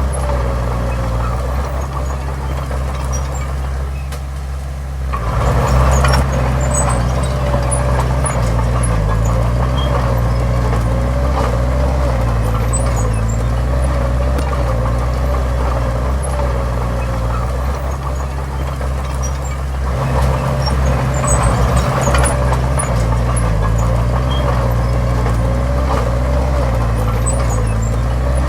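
Heavy diesel earthmoving machine engine running steadily. It rises in level as it works harder just after five seconds in, and again about twenty seconds in.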